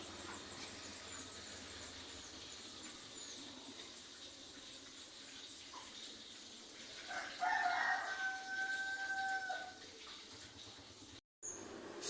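A rooster crowing once, about seven seconds in, a held call of about two seconds over steady background noise.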